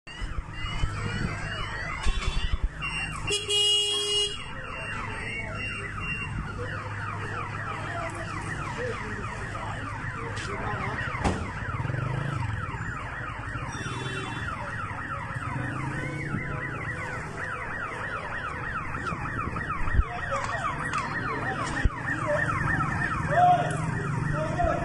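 Car alarm sounding, a fast repeating rising whoop kept up over a low steady rumble.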